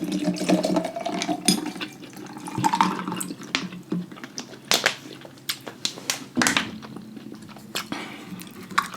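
Liquid pouring into a container, its pitch rising steadily over the first three seconds as it fills, followed by scattered clicks and knocks of utensils and dishes.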